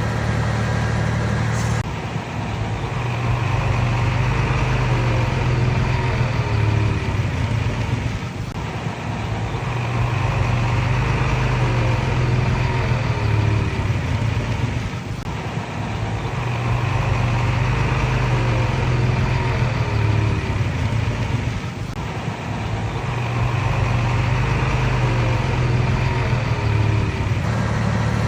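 Komatsu D31PX bulldozer's diesel engine running steadily under working load, its drone swelling and easing in a repeating cycle about every six to seven seconds, with faint wavering squeals in each cycle.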